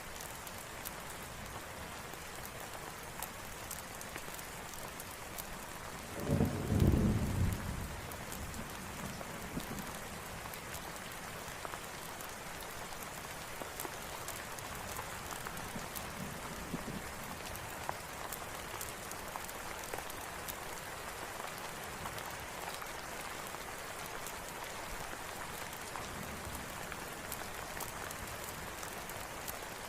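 Steady rain hissing, with a short low rumble of thunder about six seconds in and fainter rumbles later. Small sharp crackles of a campfire pop through it.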